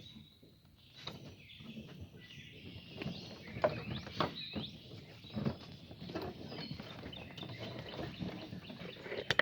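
Birds chirping faintly outdoors, with a few scattered sharp clicks or pops in the middle of the stretch.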